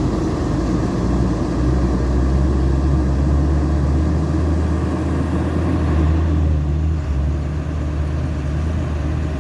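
Diesel engine of a CAT 320D2 excavator running steadily with a deep hum, easing slightly about seven seconds in.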